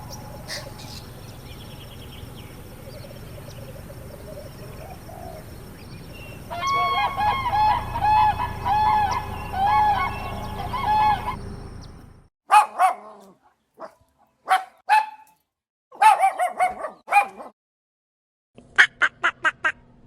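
Bird calls: a quick run of repeated short, arching calls lasting about five seconds over a steady low rumble. The rumble then drops away and several short bursts of rapid calls follow.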